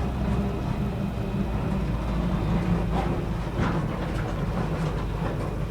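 Old grain truck's engine running steadily at low speed while it is driven, with a few faint knocks.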